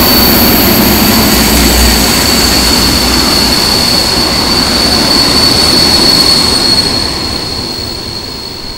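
Freight train wagons rolling past, steel wheels rumbling on the rails with a steady high-pitched wheel squeal. The noise fades away near the end as the last wagon goes by.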